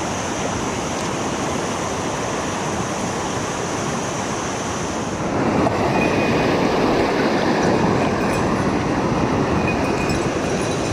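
Rushing water of a mountain headwater stream, a steady noise that gets louder about halfway through.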